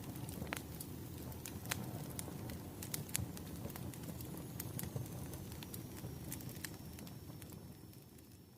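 Wood fire burning, with a low rumble and irregular sharp pops and crackles from the burning firewood, plus a faint thin high whistle slowly falling in pitch. The sound fades out near the end.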